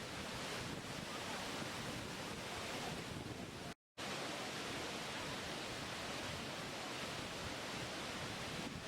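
Waterfall rushing steadily, cutting out to silence for a moment about four seconds in.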